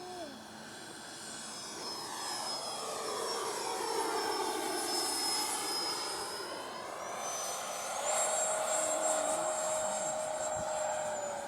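Electric ducted-fan whine of an FMS Rafale RC jet flying past, swelling as it passes. About eight seconds in the whine steps up in pitch and gets louder, then eases slightly near the end.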